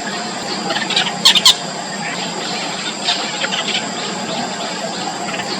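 Yellow bittern nestlings squeaking in the nest: a run of short, high squeaky calls, the two loudest in quick succession just over a second in.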